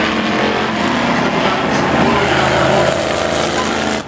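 Several demo race trucks' engines running and revving on a speedway track, their pitches rising and falling over one another. The sound cuts off abruptly about four seconds in.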